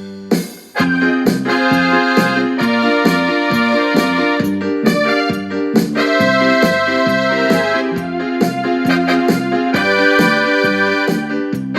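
Casio WK-6500 keyboard's sequencer playing a multi-part arrangement with its built-in sounds: a held chord fades out, the music dips for a moment about half a second in, then a pulsing bass line runs under chords and melody.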